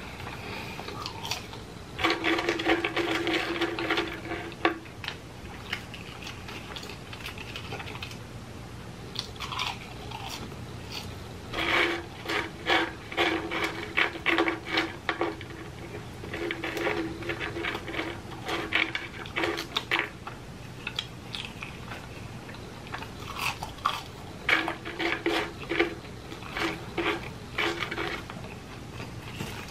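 Close-miked chewing of French fries, with soft crunching and wet mouth sounds. A steady pitched hum sounds in several stretches of a few seconds.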